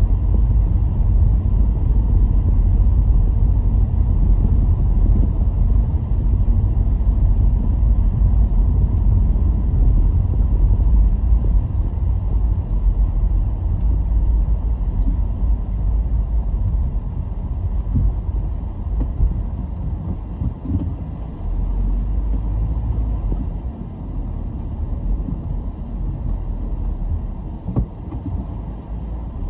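Car driving along a road: a steady low rumble of engine and tyre noise, easing off a little in the second half.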